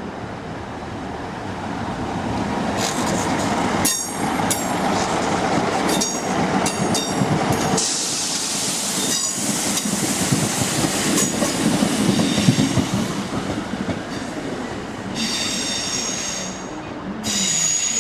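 Class 150 diesel multiple unit moving through the station's pointwork: running noise from its diesel engines and wheels on the rails. High-pitched wheel squeal comes in spells a few seconds in and again near the end.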